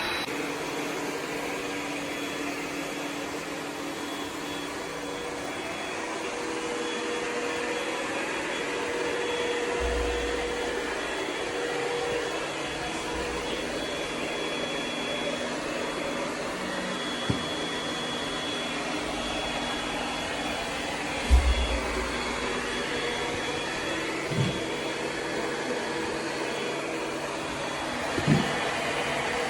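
ECOVACS DEEBOT X9 Pro Omni robot vacuum running: a steady motor whir with a high, even whine, broken by a few brief knocks, the loudest about two-thirds of the way through.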